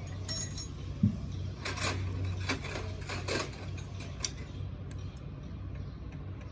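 Scattered metallic clicks and clinks of tools or engine parts being handled, with one sharp knock about a second in, over a steady low hum.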